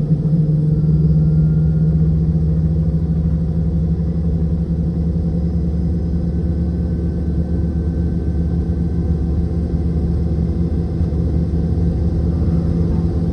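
Boeing 717's rear-mounted Rolls-Royce BR715 turbofan engines heard from inside the rear cabin: a steady low drone with a faint high whine above it.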